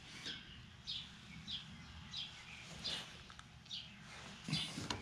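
A bird chirping faintly and repeatedly, short high chirps that fall in pitch, roughly one every two-thirds of a second. A soft knock or rustle of handling comes near the end.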